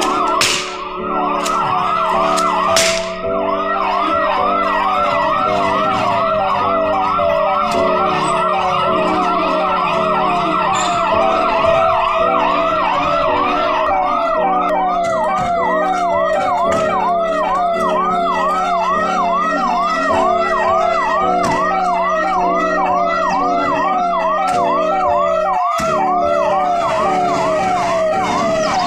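Police vehicle siren sounding a rapid yelp, its pitch rising and falling in a fast, even repeat.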